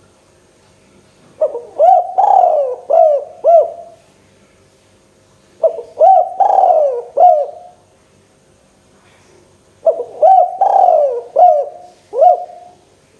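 Spotted dove (tekukur) cooing: three phrases, each a quick run of four or five short coos that rise and fall in pitch, with a pause of a couple of seconds between phrases.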